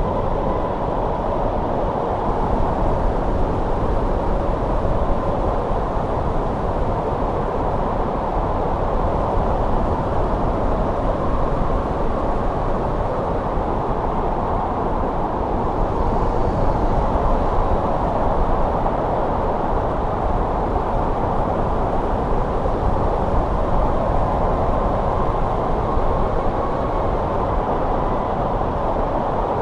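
Steady winter wind blowing, a low rushing rumble that swells and eases slowly, with a faint whistling tone over it.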